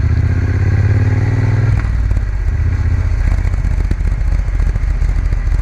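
Triumph Bonneville T120's parallel-twin engine running under way, heard from on the moving motorcycle; the engine note changes about two seconds in.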